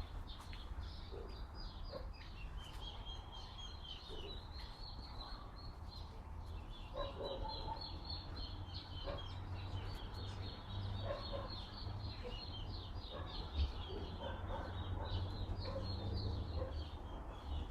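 Outdoor birdsong: many small birds chirping rapidly and continuously in high notes, with scattered lower calls joining in from about halfway through. Wind rumbles on the microphone underneath.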